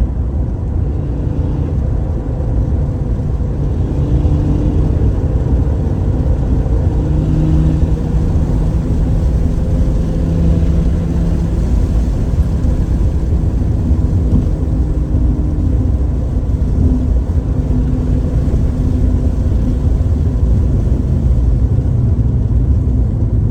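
Car driving hard on a racetrack: a loud, continuous low rumble of engine, wind and road noise, with the engine note drifting up and down in pitch.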